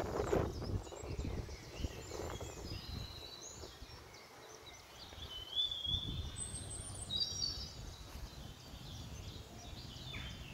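Birds chirping and whistling in short high calls, mostly in the middle seconds, over an uneven low rumble of outdoor background noise.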